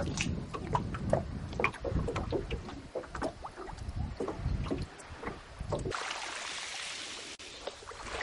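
Water slapping and splashing against a boat's hull, with irregular knocks over a low rumble. About six seconds in this gives way to a steady rushing hiss.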